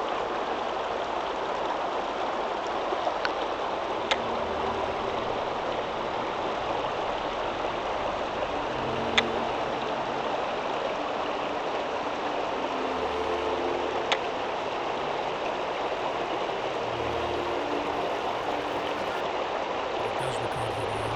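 A steady rushing noise like flowing water, with a few faint clicks, over soft background music.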